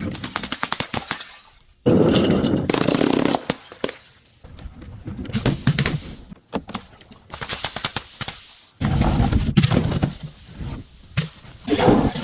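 Objects being crushed one after another: several bursts of crunching and cracking, each a second or two long, the loudest starting about two and about nine seconds in.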